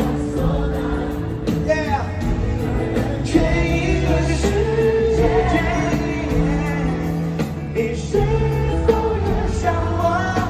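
Live pop band playing, with a steady drum beat and sustained bass and keyboard notes, and singing over it about two seconds in and again near the end.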